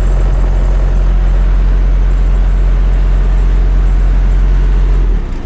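Diesel engine idling with a steady, loud, low hum. It drops away suddenly near the end, leaving a quieter, rougher running sound.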